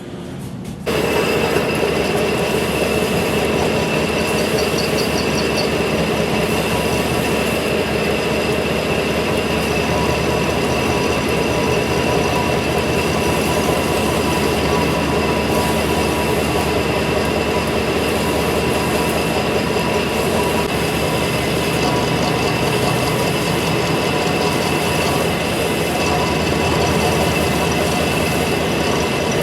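Metal lathe turning a steel conveyor drum roller: a steady, loud machining noise with a high, even whine from the cut. It starts suddenly about a second in.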